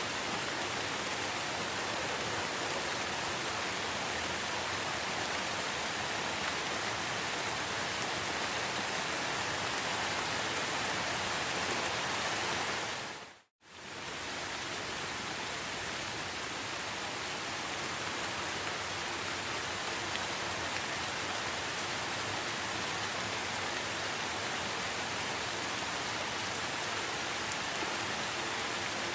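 Steady rain falling in a rainforest, an even hiss of drops. About halfway through it fades out to silence for a moment and comes straight back, like the seam of a looped recording.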